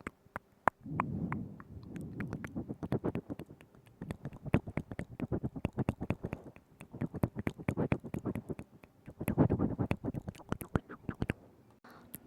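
Close-up mouth sounds into a binaural microphone: wet tongue clicks and smacks in quick runs of a second or two, with soft breathy murmuring under some of them.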